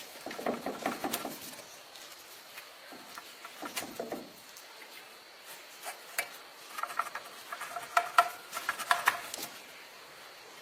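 Intermittent clatter of small hard objects being handled: bursts of light clicks and rattles, with a denser run of sharper clinks near the end, some with a short ringing tone.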